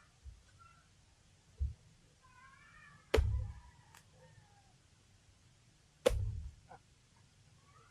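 Heavy blade chops into a young coconut (buko): four sharp whacks, each with a deep thud, spaced a second or more apart. The third and fourth are the loudest. Faint high animal calls sound between the blows.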